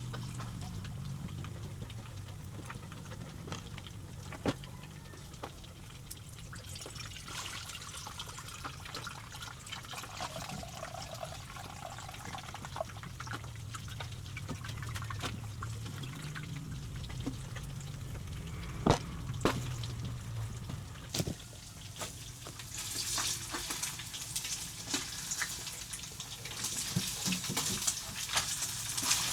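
Water pouring and trickling, with scattered clicks and knocks; the rushing grows louder near the end.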